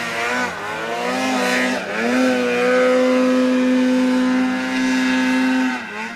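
Polaris 800 two-stroke snowmobile engine revving, its pitch dipping and climbing in the first couple of seconds and then held high and steady under throttle, cutting off near the end.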